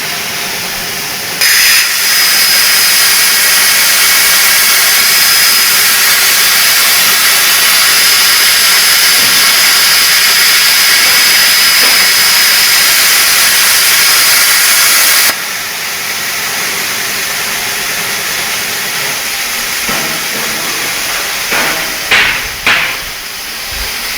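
CNC plasma cutter cutting steel: the arc strikes about a second in with a loud hiss and a steady high whine, runs for about fourteen seconds, then cuts off suddenly, leaving a quieter steady hiss. A few sharp knocks near the end.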